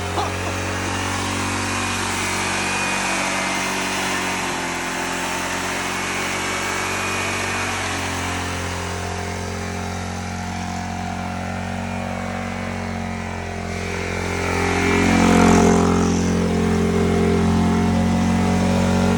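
Lawnmower engine running steadily, rising in loudness as it is revved up about fifteen seconds in, then holding a little higher.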